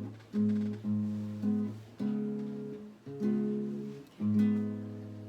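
Acoustic guitar strumming a few closing chords with no singing, each chord fading before the next; the last chord rings out and dies away.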